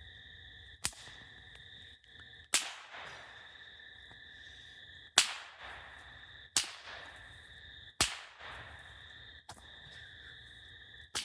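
A whip cracking repeatedly, about seven sharp cracks at uneven intervals of roughly a second and a half, each with a short ringing tail; the loudest comes about halfway through.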